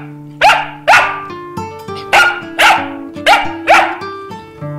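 Dog barking sharply, six barks in three quick pairs, over background music with steady held notes.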